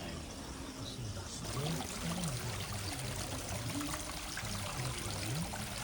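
Water running and splashing steadily, growing louder about a second and a half in, with faint voices murmuring beneath it.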